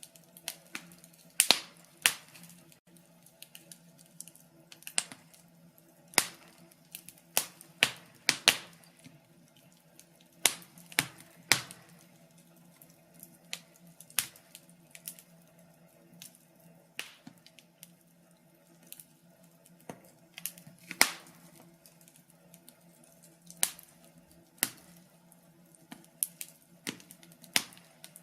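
Wood fire crackling: irregular sharp pops and snaps at uneven intervals, some much louder than others, over a faint steady hum.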